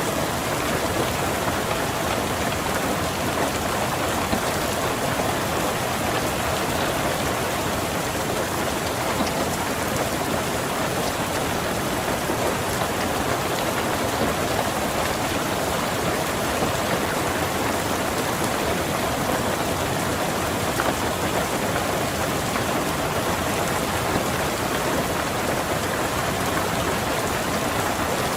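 Steady, heavy rain drumming on a car's roof and windows, heard from inside the car, with no breaks or thunderclaps.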